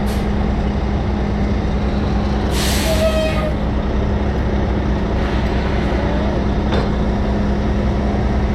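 Heavy diesel tow truck engine running steadily, with a short burst of air hiss about two and a half seconds in.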